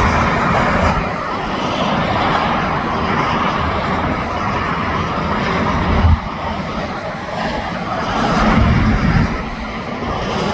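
Interstate highway traffic going past: a steady roar of tyres and engines from trucks and cars, with a heavier low rumble swelling about eight seconds in as a vehicle passes.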